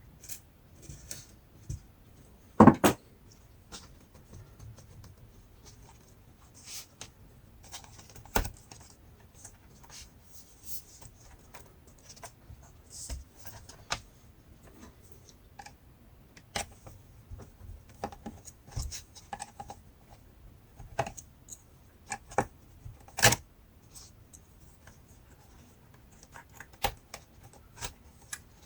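Irregular clicks, taps and short scrapes of a laptop being taken apart by hand, with plastic parts and small tools being handled. The loudest is a sharp double knock about three seconds in.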